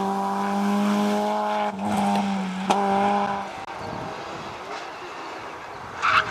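Rally car engine held at high revs with a steady note, briefly broken twice as it shifts gear, then stopping abruptly about three and a half seconds in. A quieter background follows, and a loud burst of sound from the next rally car arriving comes near the end.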